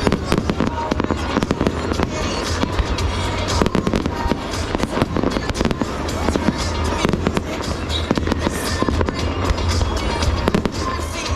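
Aerial fireworks bursting and crackling in rapid, continuous succession, with music playing underneath.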